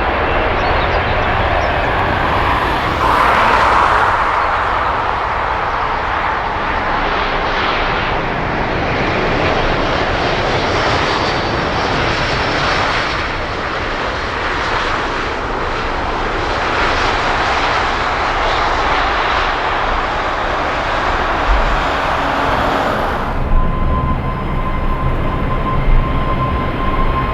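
Airliner engines running loud and steady as the plane passes. The engine noise cuts off abruptly about 23 seconds in, leaving a fainter hum with a thin steady high tone.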